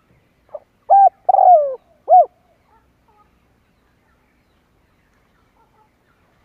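Spotted dove cooing one phrase: a faint short note, then three loud coos, the third-to-last longer and sliding down in pitch, all within about two seconds.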